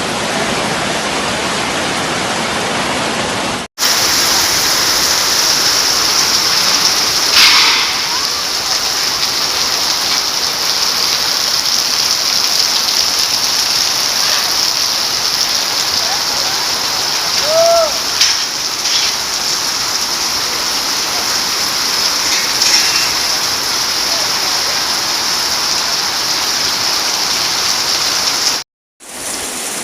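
Very heavy rain pouring down in a steady, dense hiss, cut off for a moment twice where the recording is spliced. A brief faint squeak rises and falls a little past halfway.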